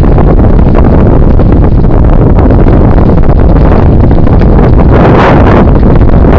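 Wind buffeting the microphone of a camera riding along on a moving bicycle: a loud, steady rumbling noise with a stronger gust about five seconds in.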